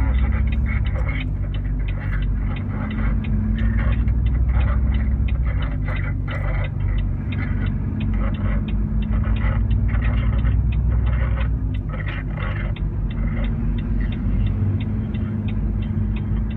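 Motor vehicle running with a steady low rumble and hum, overlaid by a fast run of short clicks or rattles.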